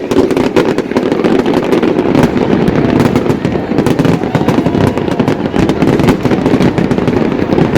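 Aerial fireworks exploding continuously: a dense, steady rumble of booms with many sharp crackling reports layered over it.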